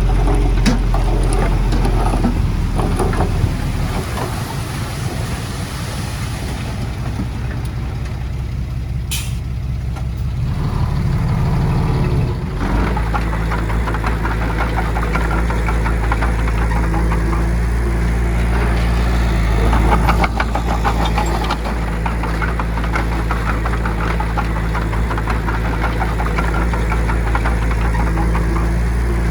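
Heavy diesel engine of earthmoving machinery running under varying load, its note dropping about four seconds in and rising to a steadier, fuller drone about twelve seconds in.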